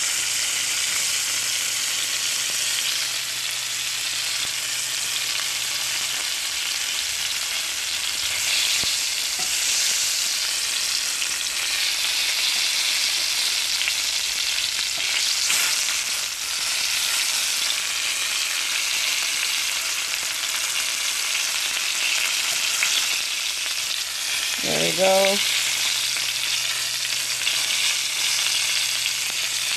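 Battered milkweed pods shallow-frying in hot oil in a cast-iron skillet: a steady sizzle throughout.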